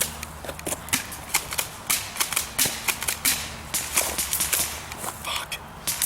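Airsoft gunfire: irregular sharp cracks and snaps, several a second, some shots louder and nearer than others.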